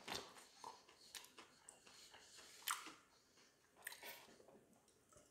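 Near silence with faint chewing and mouth sounds and a few soft clicks, the loudest about a third and three quarters of the way through.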